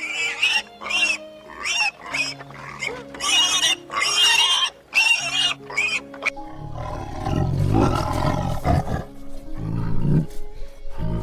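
Animal calls over background music: a run of short, high-pitched cries in the first half, then low, rough, rumbling calls from a large animal in the second half.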